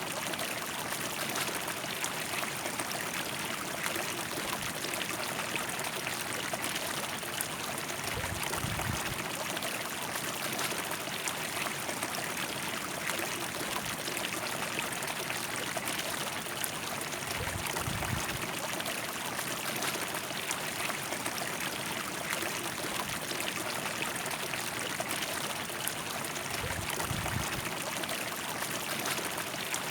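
River water flowing steadily, an even rushing babble. Three brief low rumbles, about nine seconds apart, sit under it.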